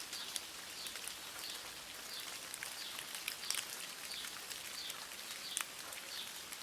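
A bird repeats a short, high call evenly, about every two-thirds of a second, over a steady hiss with scattered sharp clicks.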